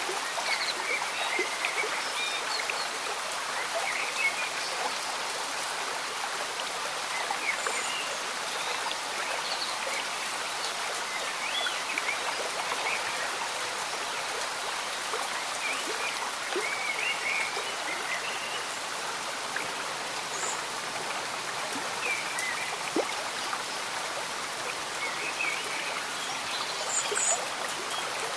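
A small, slow-moving stream bubbling and trickling, mixed with steady rain. Short, high blips are scattered over an even hiss throughout.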